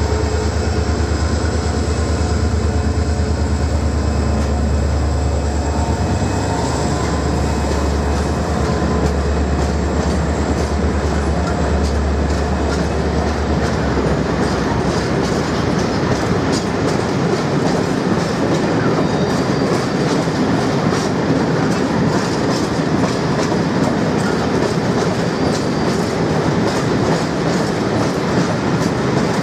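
Renfe Class 333 diesel locomotive passing with a low engine hum that fades after about fourteen seconds, followed by a long rake of open freight wagons rolling by, their wheels clattering over the rail joints.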